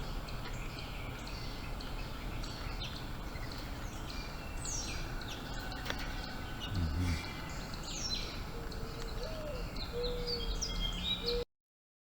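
Several birds chirping and calling, with quick downward-sliding notes, over a steady background hiss. A low, held call joins them in the last few seconds. The sound cuts off abruptly about a second before the end.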